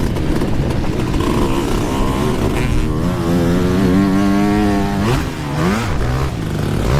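Yamaha YZ125 two-stroke dirt bike engine revving under load. Its pitch holds high, drops sharply about five seconds in as the throttle is closed, then climbs straight back up, and rises again near the end.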